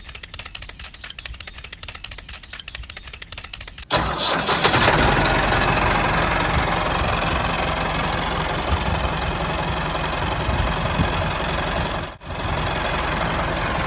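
Small engine of a handmade mini tractor, first ticking over with rapid even firing, then about four seconds in suddenly much louder and running hard and steady, with a brief drop near the end.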